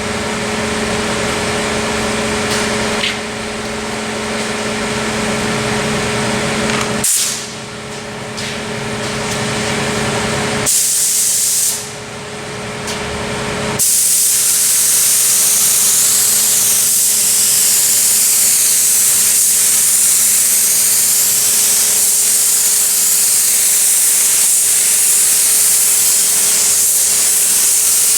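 Air-fed paint spray gun spraying black paint: a short burst of hiss about eleven seconds in, then a long continuous spray from about fourteen seconds on. Before that a steady machine hum with a low, even tone runs underneath.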